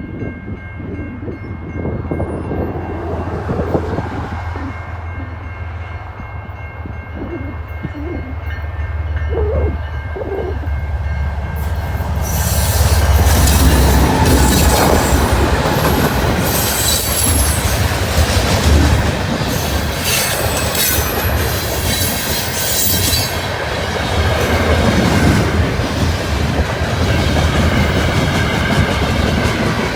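Heavy wind buffeting the phone's microphone as a low rumble, then, from about twelve seconds in, a CN freight train led by GE Evolution-series diesel locomotives rumbling past close by. Its steel wheels clatter and squeal on the rails as the loaded potash cars roll by.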